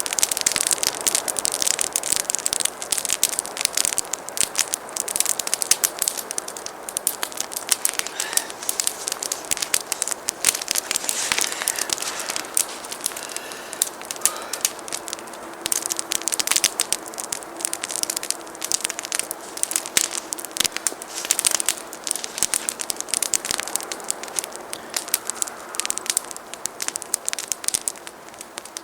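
Wood campfire crackling and popping steadily, with dense irregular snaps throughout.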